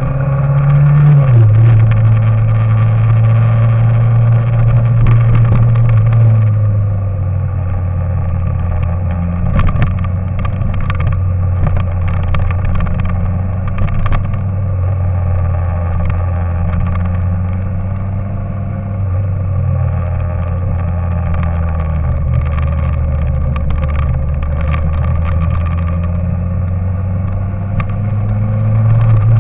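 A vehicle engine running steadily, its pitch stepping down about six seconds in and then holding nearly level, with scattered clicks and rattles in the middle.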